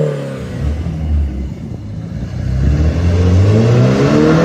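Car engine and exhaust being free-revved: the revs drop back to a low idle, then climb in one long rev through the second half, peaking near the end.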